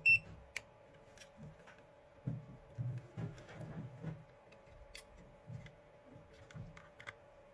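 Light clicks and soft knocks of an electric shaver's plastic housing and parts being handled and pressed into place during reassembly, opening with one brief high-pitched chirp.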